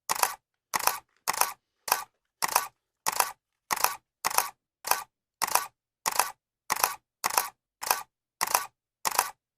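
Camera shutter clicking over and over at a steady pace of about 1.7 clicks a second. Each click is a quick double snap.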